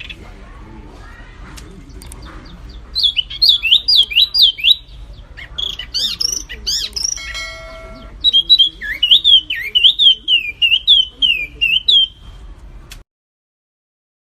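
A songbird sings rapid runs of loud, clear whistled notes that sweep up and down, in two bursts with a short call and a brief pause between them. The song plays over a low steady hum and cuts off abruptly to silence about a second before the end.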